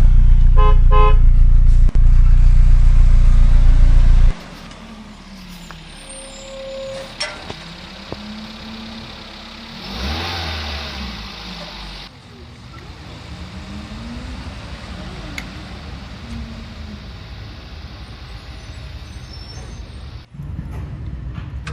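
Motor vehicle sound effects: a very loud, steady low engine rumble for about four seconds that cuts off abruptly, followed by quieter traffic-like vehicle noise with a few rising and falling tones and a brief louder swell midway.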